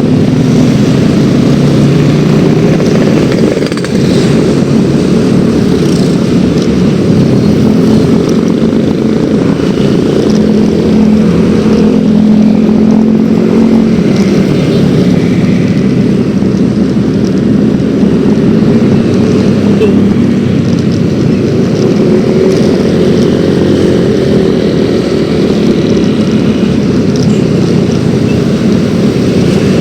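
Yamaha X-Ride 113cc single-cylinder scooter engine running on the move, its pitch drifting up and down with the throttle.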